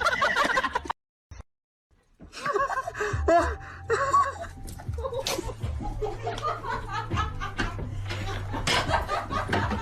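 A person laughing, with music underneath. The sound cuts to silence for about a second, about a second in.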